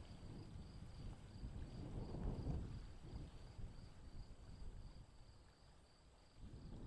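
Faint insect chirring outdoors: a steady, evenly pulsing high trill, typical of a cricket. Gusts of wind rumble on the microphone now and then.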